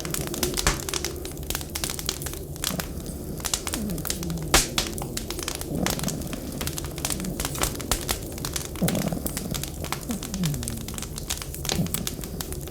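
Wood fire crackling in a fireplace, with frequent sharp pops and snaps over a steady low rumble. Short low tones falling in pitch recur every second or two beneath the crackle.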